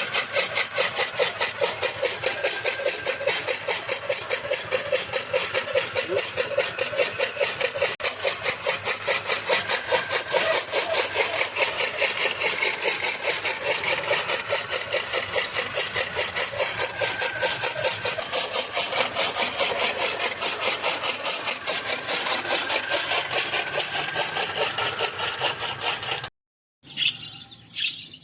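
Fodder-cutting chaff cutter chopping green grass for cattle, a fast, even rhythm of blade strokes, about five a second, over a machine's running. It cuts off suddenly near the end.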